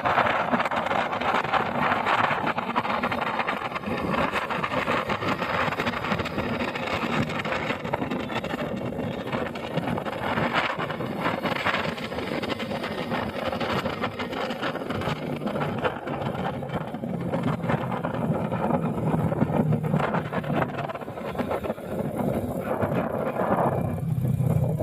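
Motorcycle running while riding, with steady wind noise buffeting the microphone; a low engine hum comes up more clearly in the second half, strongest near the end.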